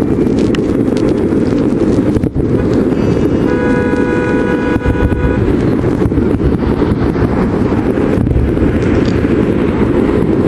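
Loud, steady rumble of a fireworks barrage with scattered bangs, mixed with wind buffeting the microphone. A horn sounds a single held note for about two seconds a few seconds in.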